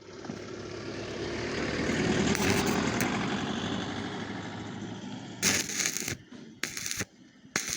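A vehicle passing by: its noise swells to a peak a couple of seconds in and fades away by about five seconds. Three short bursts of noise follow near the end.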